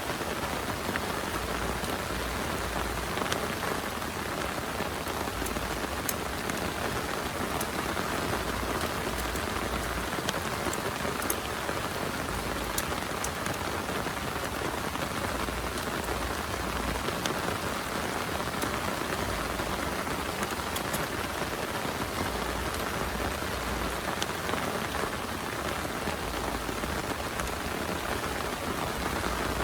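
Heavy rain falling steadily, with scattered sharper drop impacts.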